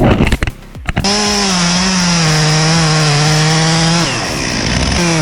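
A few sharp knocks, then a chainsaw running at high revs with a steady whining pitch. It eases off about four seconds in and revs back up, its pitch dipping briefly as it takes load.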